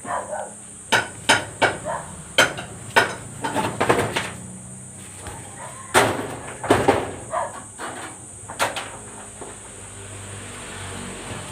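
A hammer striking in irregular bursts, about a dozen sharp blows in clusters, with a pause in the middle and a last blow near the end: carpentry hammering during house-building work.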